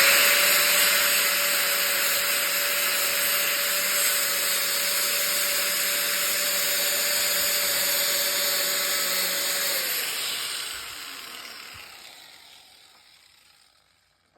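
Electric angle grinder spinning up to a steady whine with a harsh hiss as it works the metal frame tubing. About ten seconds in it is switched off and coasts down, the whine falling away and the hiss fading out.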